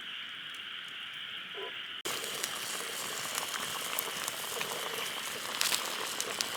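Food bubbling and sizzling in a mess tin over the fire, an even hiss with small crackles, louder from about two seconds in.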